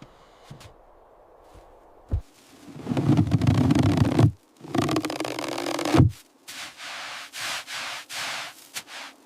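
A sharp thump, then two long stretches of heavy, rough scraping, the second ending in a low thump, followed by several short rustling strokes.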